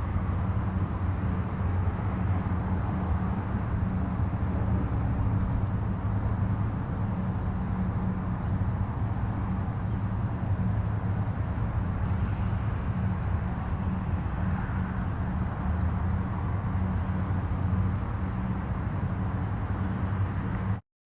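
Distant highway traffic: a steady, low rumble of tyres and engines with no single vehicle standing out. It cuts out for a moment near the end.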